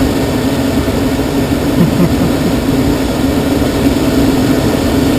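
Steady rush of airflow inside a glider's cockpit as it glides in the landing pattern, with a constant low hum running under it.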